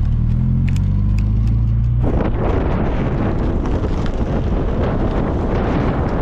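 Classic car's engine pulling away, its pitch rising for about two seconds, then drowned by loud wind rushing over the microphone as the car gathers speed.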